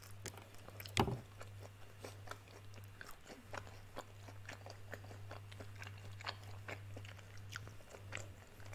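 Biting into a crispy breaded fried chicken wing, with one loud crunch about a second in, followed by chewing with many small crunching clicks. A steady low hum runs underneath.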